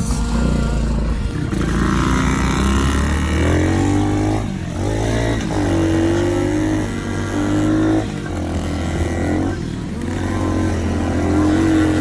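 Small dirt bike engine running under a rider, revving up and easing off several times, with stretches held at a steady pitch.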